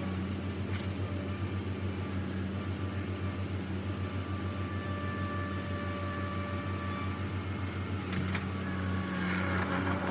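A vehicle engine running steadily at an even speed, with a fast steady pulse and a faint whine over it; it grows a little louder near the end.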